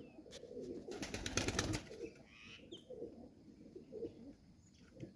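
Domestic pigeons cooing repeatedly, with a brief rapid clatter about a second in, the loudest sound.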